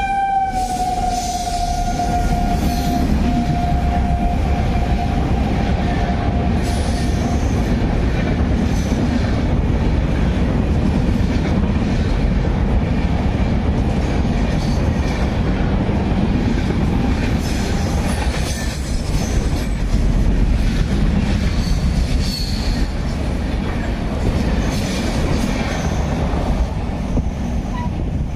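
Indian Railways Howrah Mail express train passing at reduced speed: a steady rumble of wheels on rail with repeated clatter. A long horn tone sounds at the start, dips slightly in pitch and fades out about seven seconds in.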